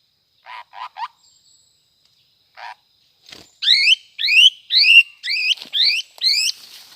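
A cucak kopi bird calling: a fast run of about nine loud notes, each sweeping upward, starting about three and a half seconds in. Three short rustles come shortly before.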